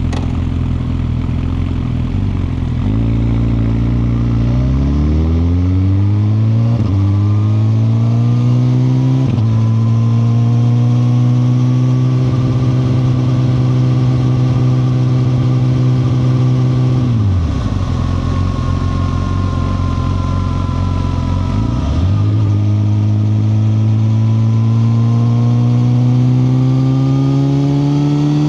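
2021 Suzuki GSX-R1000R's inline-four engine under way: it pulls up through the gears with short breaks in pitch at three upshifts, holds a steady cruise, drops off as the throttle closes around the middle, then climbs steadily again under acceleration near the end.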